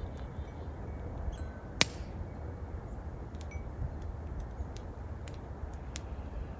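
Wood campfire crackling, with scattered sharp pops (the loudest about two seconds in) over a steady low hum of wind.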